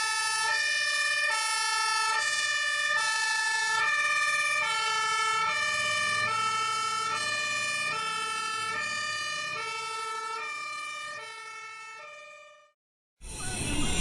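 Two-tone emergency vehicle siren alternating steadily between a high and a low note, fading away over its last couple of seconds. Music starts abruptly near the end.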